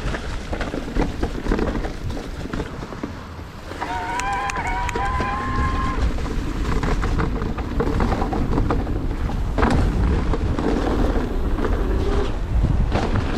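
Mountain bike ridden down a wet trail: steady wind and riding rumble on the camera mic, with rattling and clicking from the bike over rough ground. About four seconds in there is a high squeal that lasts about two seconds.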